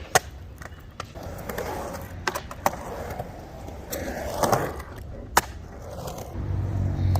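Skateboard with Ace hollow trucks rolling on pavement: a steady rumble from the wheels, broken by several sharp clicks. A low hum joins in near the end.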